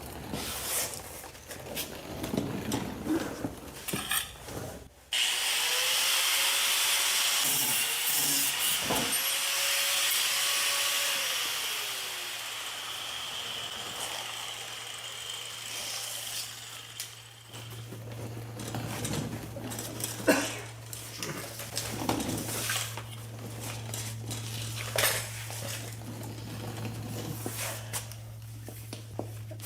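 Work on a car with tools: scattered knocks and clinks, then a power tool running steadily for about seven seconds before winding down, then more clinks over a low steady hum.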